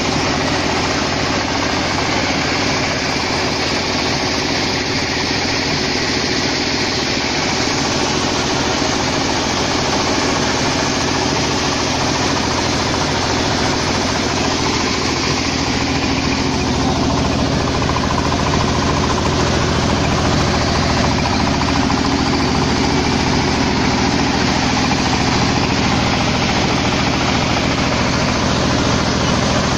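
Mini combine harvester's engine and machinery running steadily at an even level.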